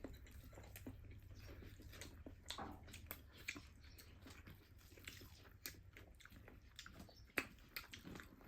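Eating sounds: chewing with wet mouth clicks and smacks, faint and irregular, one sharper click near the end.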